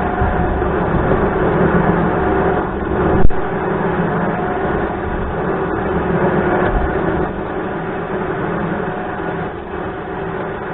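A motor running steadily with a low hum, and one sharp click a little over three seconds in.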